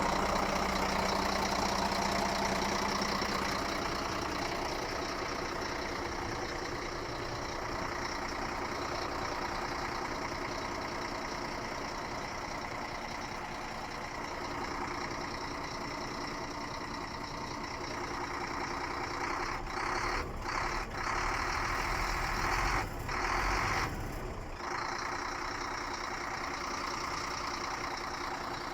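Scania R 114 L 380 tractor unit's diesel engine idling steadily, with a few brief dips in the sound about twenty seconds in.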